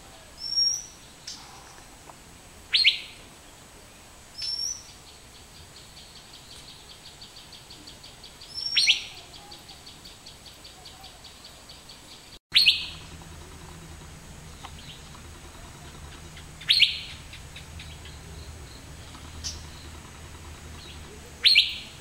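Asian fairy-bluebird calling: a series of loud, sharp whistled notes, each a quick downward sweep, repeated every two to four seconds, about seven in all.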